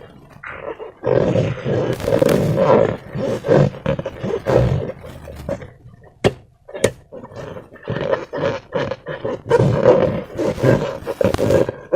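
Slime-filled rubber balloon being squeezed and rubbed by hand: rubbery squeaking and wet squelching in irregular bursts, with a short lull and a couple of sharp clicks around the middle.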